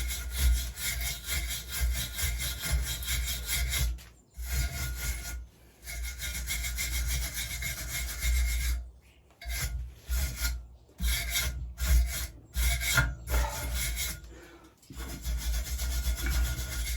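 A hand tool scraping back and forth over freshly stick-welded steel, in runs of rasping strokes broken by short pauses.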